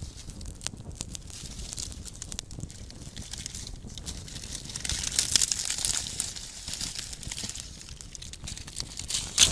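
Small campfire crackling, with a steady run of sharp snaps and pops. The crackling thickens into a louder hissing flurry about halfway through, and there is one loud pop near the end.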